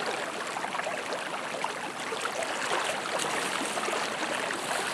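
Steady rushing of fast-flowing, flood-high river water, an even noise that holds level throughout.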